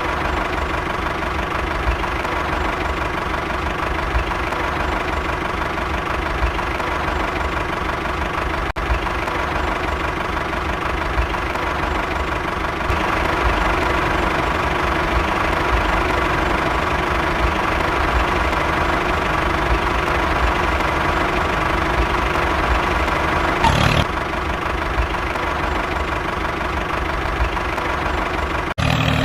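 A motor running steadily with a low, even throb and a constant hum, with a brief click a little before the end; it cuts off just before the end.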